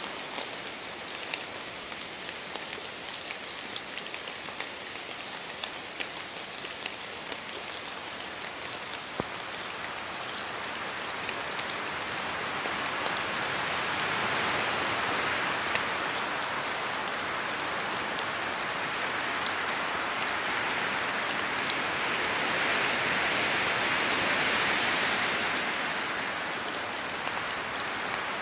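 Steady rain with many small drop ticks over an even rushing hiss. The rush swells louder about halfway through and again near the end.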